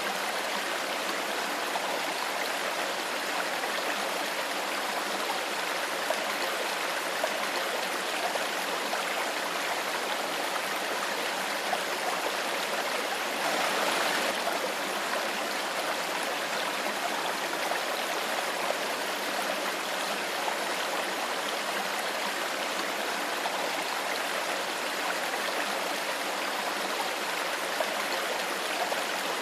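A shallow stream flowing steadily over stones, a continuous babbling rush of water that swells briefly about halfway through.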